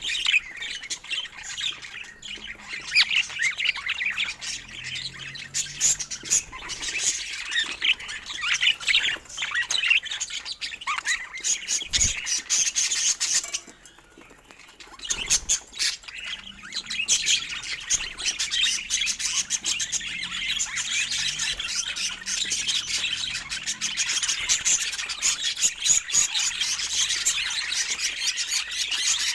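Budgerigars chattering and chirping in quick, dense calls, with a brief lull about halfway through.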